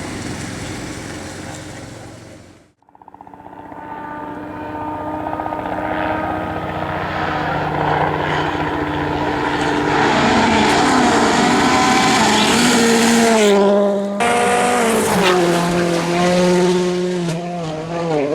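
Volkswagen Polo WRC rally car's turbocharged four-cylinder engine at racing speed. The sound drops out abruptly about three seconds in, then the engine comes back and grows louder as the car approaches. In the second half it goes through quick pitch steps as the driver shifts gears, with another abrupt break partway through.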